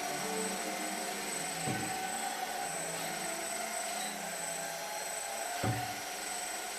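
Small electric motors of an RC model tug's azimuth thrusters whirring steadily, with two brief knocks.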